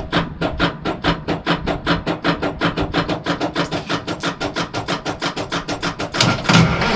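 Diesel truck engine turned over by its starter without firing: an even, rapid chugging of about six to seven compression strokes a second. The engine died after running and won't restart, and the batteries are wearing down.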